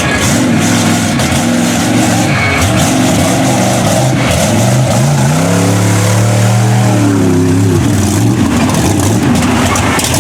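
Mud bog trail truck's engine revving hard, its pitch rising and falling again and again, then held high for about two seconds in the middle before dropping back.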